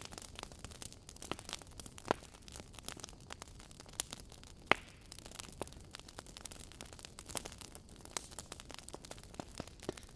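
Wood logs burning in a fireplace, crackling with frequent irregular snaps and pops over a low hiss. One sharp pop stands out a little before the middle.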